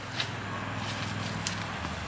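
Footsteps, a few sharp steps over a steady low hum.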